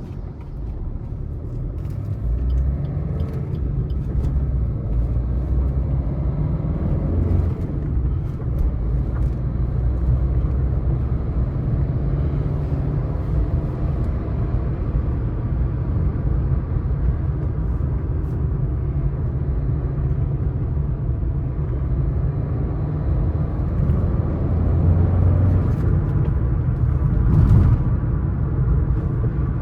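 Suzuki S-Cross 1.3 DDiS four-cylinder turbodiesel and road noise on a highway drive. It swells over the first few seconds with the pitch rising as the car pulls, then settles into a steady low drone. A short louder burst comes near the end.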